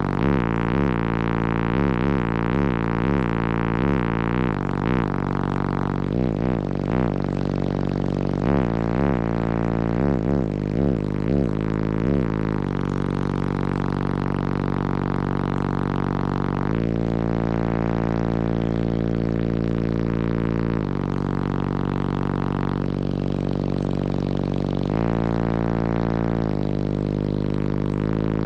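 Bass-heavy song played loud through a car audio system with three Resilient Sounds Platinum 18-inch subwoofers on two Wolfram 4.5k amplifiers. The deep bass notes come in quick pulses, about two a second, for the first twelve seconds, then are held for several seconds at a time, shifting pitch from note to note.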